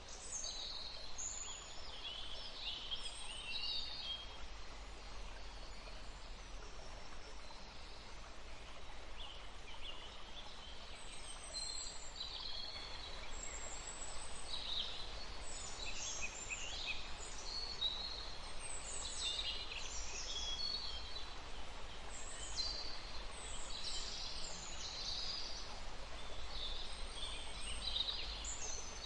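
Woodland stream running steadily under a busy chorus of birds, with many short chirps and song phrases throughout.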